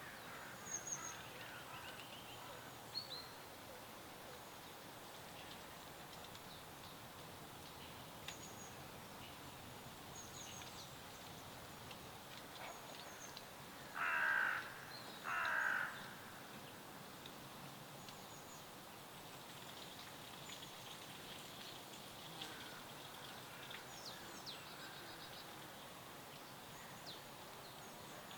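Wild birds: scattered short, high-pitched chirps over a steady soft hiss, with two loud harsh calls about halfway through, a second and a half apart.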